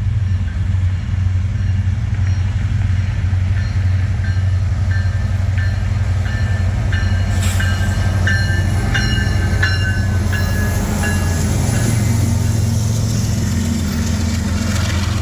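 Freight train led by Kansas City Southern diesel locomotives passing, with a steady low engine rumble. From about four to twelve seconds in come short high squeals and clanks of wheels on the rails.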